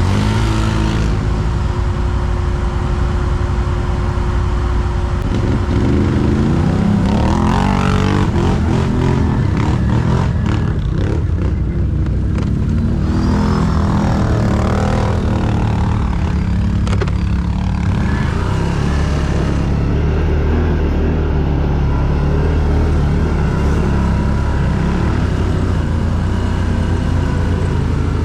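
ATV (quad bike) engine running under load, its pitch rising and falling several times as the throttle is worked.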